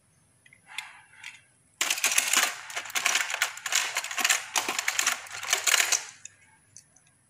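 Diecast toy cars clattering against each other and a plastic drawer as they are rummaged through: a dense run of clicks that starts about two seconds in and stops about four seconds later.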